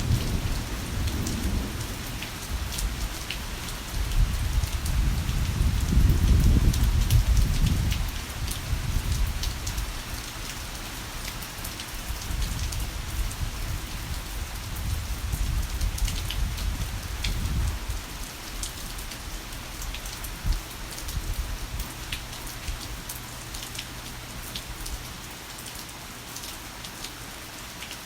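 Heavy rain falling steadily, a dense hiss with sharp individual drop hits. A deep roll of thunder rumbles underneath, swelling a few seconds in and dying away about two-thirds of the way through.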